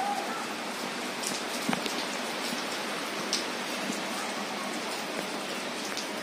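Steady rain falling on a flooded concrete terrace floor and plant leaves: an even hiss with a few sharper drips and splashes scattered through it.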